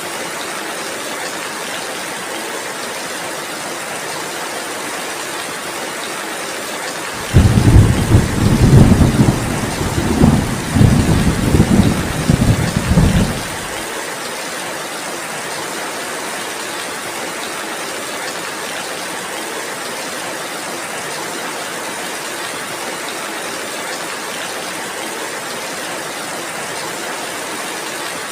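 Steady heavy rain, with a loud roll of thunder about seven seconds in that starts suddenly, rumbles in several surges for about six seconds and then stops.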